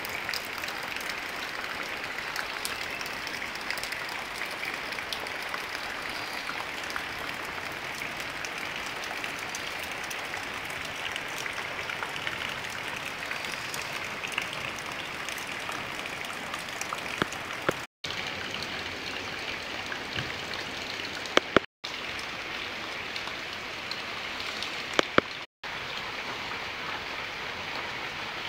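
Steady rain falling on wet ground and vegetation. Near the end, three sharp clicks, each beside a brief drop to silence where the recording is cut.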